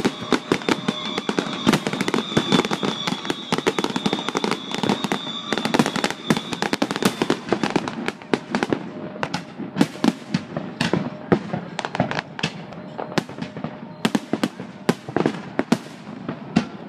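Fireworks display: dense, rapid crackling and popping from bursting shells, with sharp reports all the way through. A high steady whistle sounds through the first half and stops about seven to eight seconds in.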